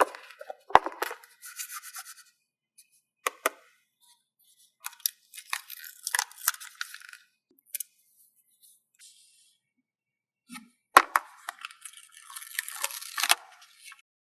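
Paper stickers being peeled from their backing and pressed down: short crackling peels and sharp taps on and off, with a longer peel near the end.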